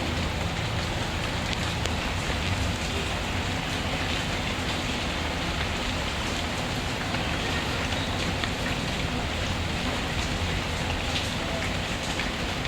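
Steady rainfall, an even hiss of drops, with faint crackles from a wood fire scattered through it.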